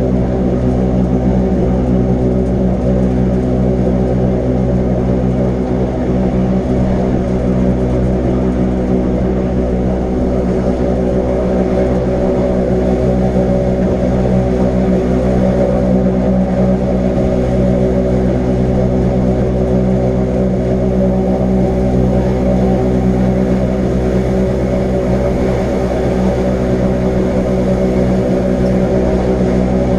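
Electric rack-railway train running steadily, a constant hum from its motors and gearing.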